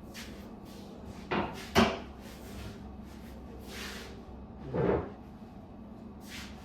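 Knocks of kitchen handling: two sharp knocks about a second and a half in, the second the loudest, then a duller thump near five seconds, over a steady low hum.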